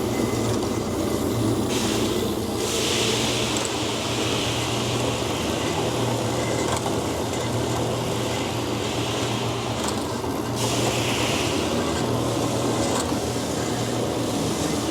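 DoAll C-916M horizontal band saw running with a steady hum, while an air line hisses from about two and a half seconds in to about ten seconds in, then again briefly a second later.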